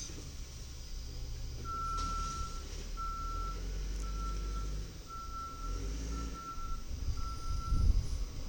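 Side-loader garbage truck's backup alarm beeping six times, about once a second, a single steady tone, over the low rumble of the truck's engine as it reverses.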